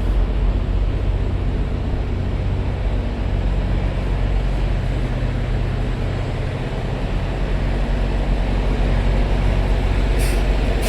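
Semi-truck's diesel engine running steadily with a low hum, heard from inside the cab. A short hiss comes about ten seconds in.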